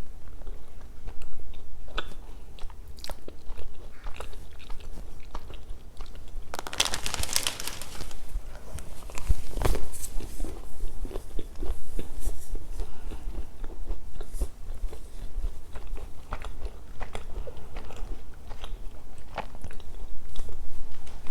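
Close-up biting and chewing of crunchy Milka chocolate snacks, with a loud crunch about seven seconds in and scattered crisp crackles, over a steady low hum.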